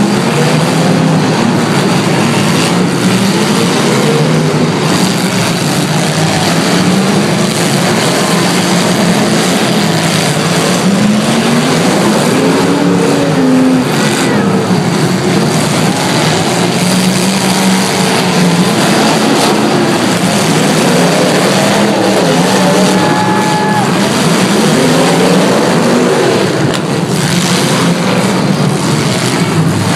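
Several derby cars' engines running hard at once, revving up and down and overlapping, over a steady wash of engine and tyre noise.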